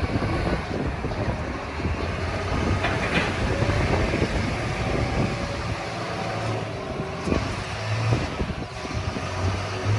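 Strong wind blowing across the microphone while paddy rice grains are poured out to winnow them, the chaff blowing off, with a steady rushing rumble full of small grain clicks.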